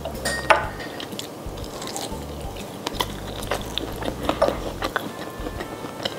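Close-miked chewing of crisp fried food: a run of short, sharp clicks at irregular intervals.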